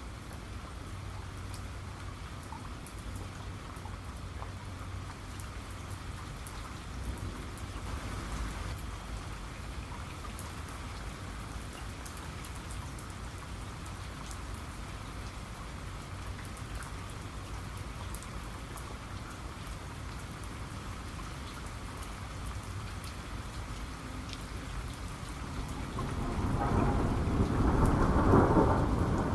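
Steady heavy rain falling, with fine patter of individual drops. Near the end a loud rumble of thunder swells up and rolls on.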